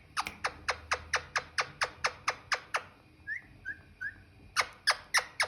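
A rapid run of sharp clicks, about five a second, for nearly three seconds. Then a pet parrot gives three short high chirps, and four more quick clicks follow near the end.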